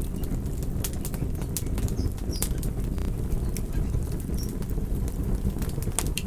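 Campfire burning with a steady low roar, and sharp crackles and pops from the burning wood at irregular moments, several each second.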